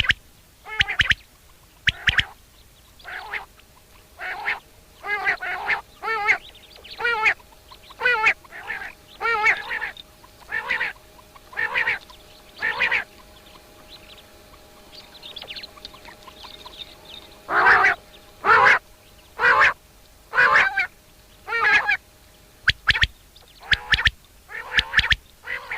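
Repeated nasal bird calls, about one a second, with a break of a few seconds around the middle before they resume.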